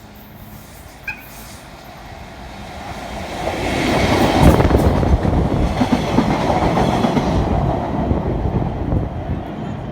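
A train passing close by on the line, its rumble growing from about three seconds in, loudest for a few seconds, then easing off slightly.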